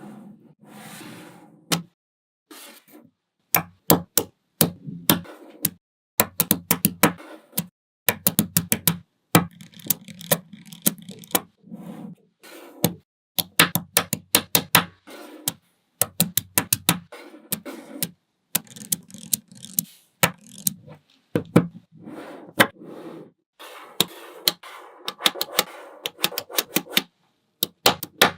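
Small magnetic balls clicking together as they are set in place, in quick irregular runs of sharp clicks with short pauses between.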